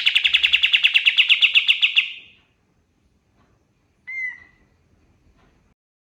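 Kapas tembak bird singing a loud, rapid rattling trill of about ten notes a second that cuts off about two seconds in, followed about four seconds in by one short whistled note.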